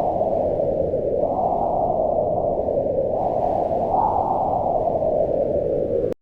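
Wind blowing in a low, steady rush that swells higher in pitch twice, about a second in and again around four seconds. The sound drops out for an instant near the end.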